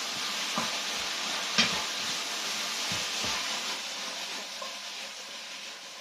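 Food sizzling in a hot wok while being stir-fried, with a few spatula knocks against the pan, the loudest about a second and a half in. The sizzle eases slightly toward the end.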